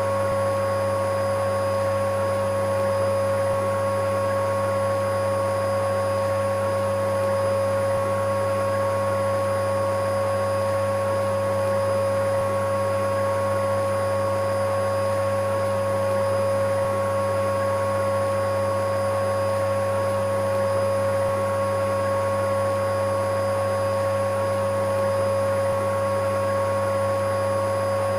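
Electric vacuum cleaner running steadily, an unchanging motor whine with a strong hum over a bed of hiss, played as a soothing sound for a colicky baby.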